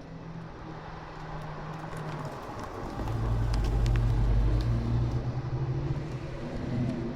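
Car engines running at low speed, one passing close with a loud, deep exhaust rumble that swells about three seconds in and then eases off.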